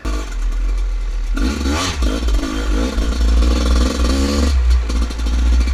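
Two-stroke dirt bike engine revving as the bike gets under way, its pitch rising and falling repeatedly between about one and a half and four and a half seconds in.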